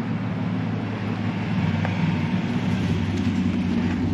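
Pickup truck engine running with a steady low drone.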